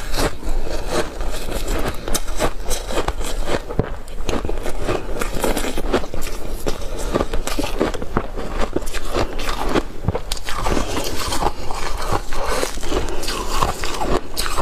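Crunching and chewing of ice coated in matcha powder, a dense, continuous crackle of ice breaking between the teeth.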